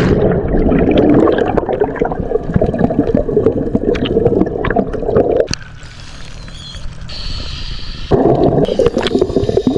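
Muffled underwater bubbling and rushing water as scuba divers enter the sea and descend, heard from under the surface, with many small bubble pops. The rushing drops away about halfway through and comes back loudly near the end.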